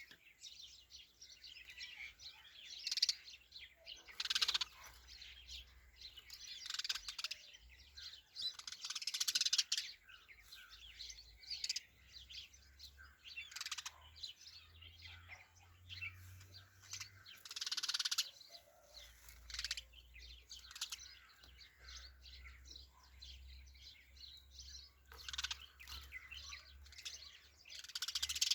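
Sparrows chirping: many short, high chirps coming in irregular clusters every second or two, with brief pauses between.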